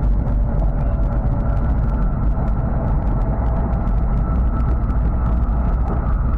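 Hokuriku Shinkansen train running at speed, heard inside the passenger cabin: a steady, deep rumble with a faint, steady high whine above it.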